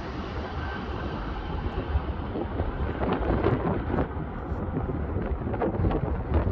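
Aeroplane landing: a steady deep rumble and rushing noise, with irregular heavy thuds from about three seconds in.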